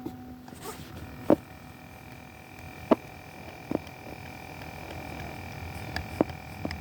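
Big Bird animatronic tape-playing toy running with a tape in but giving no voice audio: only a faint steady hum and a thin high whine, with a few sharp clicks from the toy. The missing sound is the fault being shown.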